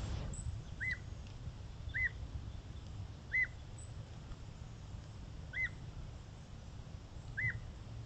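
A bird calling five times, irregularly a second or two apart. Each call is a short note that rises and falls in pitch. A steady low rumble runs underneath.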